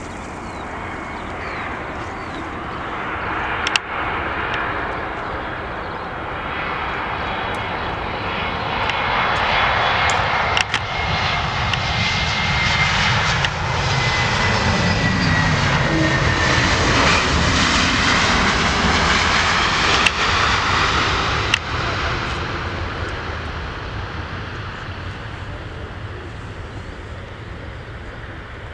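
Jet airliner passing by, its engine noise swelling to a peak about halfway through and then fading, with a whining tone that drops in pitch as it goes past.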